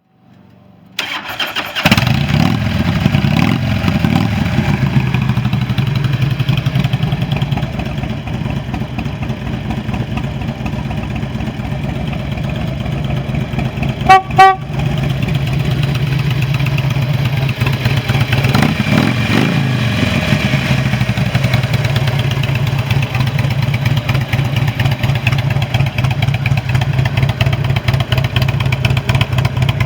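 2006 Harley-Davidson Street Glide's V-twin engine cranked by the starter about a second in, catching and then idling steadily. The horn sounds two short beeps midway, and the throttle is blipped once, the engine rising and falling in pitch, a few seconds later.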